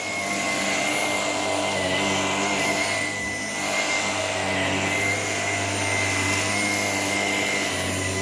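Shark PowerDetect cordless vacuum running steadily in Power Detect mode: a high, steady motor whine over a low hum and rushing air, dipping briefly about three seconds in.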